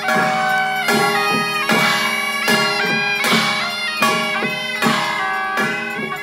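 Traditional Chinese temple-procession music: a suona (Chinese shawm) plays a sustained melody over a steady beat of drum and gong or cymbal strokes, about one every 0.8 seconds.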